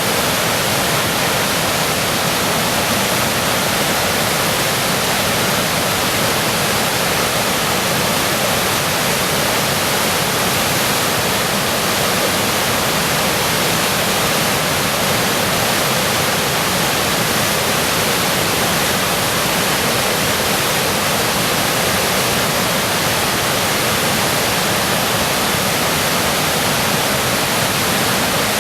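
Floodwater of the swollen Smoky Hill River rushing, a loud, steady noise that does not change.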